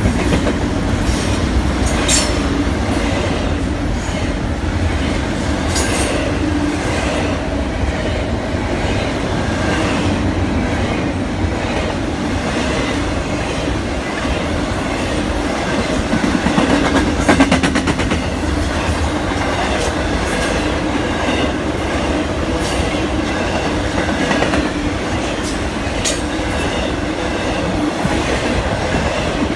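Double-stack intermodal well cars rolling past close by: a steady rumble of steel wheels on rail, with sharp clacks as wheels pass over rail joints and a louder, faster clatter partway through.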